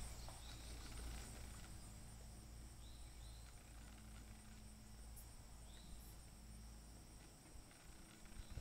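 Near silence outdoors, with a few faint, short bird chirps about half a second in, around three seconds in, and again near six seconds.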